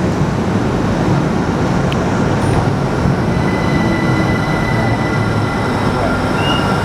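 GWR Class 387 Electrostar electric multiple unit on the move, a steady loud rumble of wheels on rail. Thin high whines come in about two to three seconds in.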